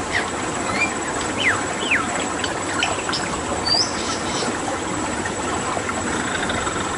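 Wild birds whistling and chirping, several short calls sliding down in pitch, over a steady sound of flowing water. The calls thin out after about four and a half seconds, leaving mostly the water.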